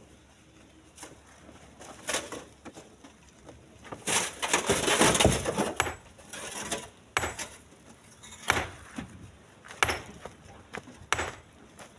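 Chunks of split stone thrown into a truck bed, landing in single knocks, with a longer clattering pile-up about four seconds in.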